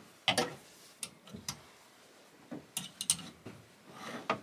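Clothes hangers clicking and scraping against a closet rail as garments are slid along and rehung: a string of sharp, irregular clicks.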